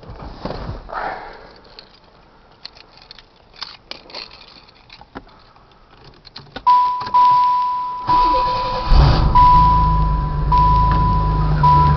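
A few seconds of keys and handling clicks come first. The car's electronic warning chime then sounds in repeated beeps, the starter cranks briefly, and the 1995 Camaro's 3.4-litre V6 catches and settles into a steady, deep idle. Its exhaust runs through a 3-inch pipe with the catalytic converter cut out and a Thrush Turbo muffler with dual outlets.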